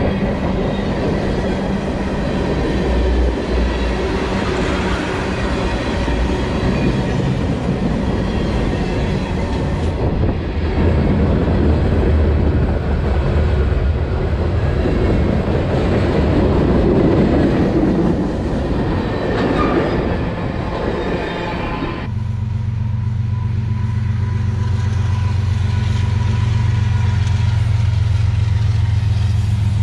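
Freight cars of a CSX manifest train rolling past, with steel wheels clattering over the rail joints. About three-quarters of the way through, the sound changes abruptly to a steady low rumble.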